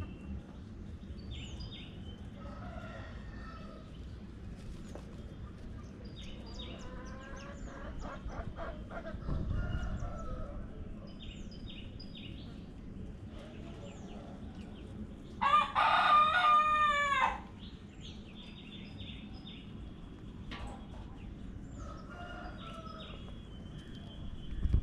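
Chickens: a rooster crows once, loud and drawn out, about two-thirds of the way through, with softer clucking and short high chirps around it.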